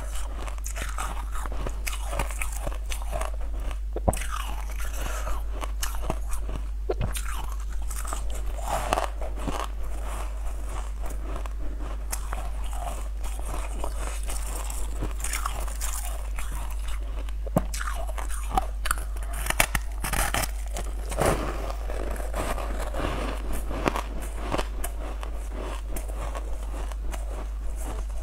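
A person biting and chewing crunchy food close to a clip-on microphone: irregular sharp crunches all through, over a steady low hum.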